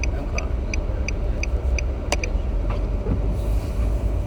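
A car's warning chime dinging about three times a second over the low rumble of the car cabin; the dinging stops with a sharp click about two seconds in.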